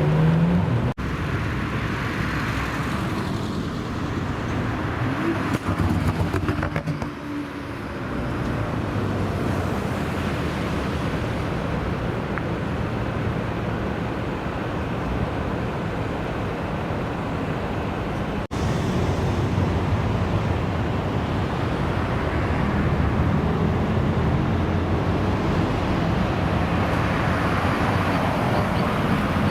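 Car engines running and accelerating, one engine's pitch rising sharply at the very start. The sound breaks off abruptly twice, about a second in and again about two-thirds through.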